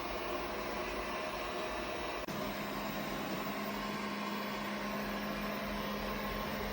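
Airzeen R7 robot vacuum running: a steady whir of its suction fan and brushes. There is a brief dropout a little over two seconds in, after which a low hum joins it.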